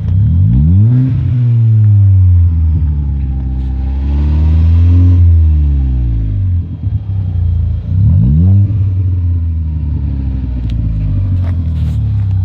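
VW Polo 1.4-litre engine with an aftermarket sports exhaust and performance air filter, idling and being revved: a quick blip about a second in, a slower, longer rev peaking around five seconds, and another quick blip around eight seconds, dropping back to a steady idle between.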